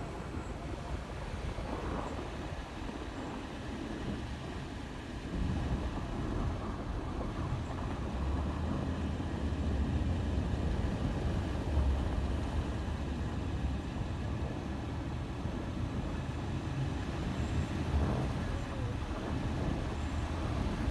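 Car driving on snowy roads, heard from inside the cabin: a steady low rumble of engine and road noise that grows a little stronger partway through.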